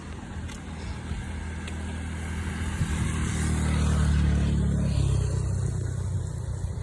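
A motor vehicle's engine drives past, growing louder to a peak about four seconds in, then dropping in pitch and fading as it moves away, over a steady rushing background.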